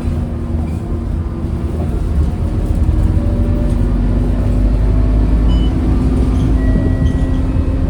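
Scania K230UB city bus's diesel engine and drivetrain running steadily while the bus drives, a heavy low rumble with a steady hum.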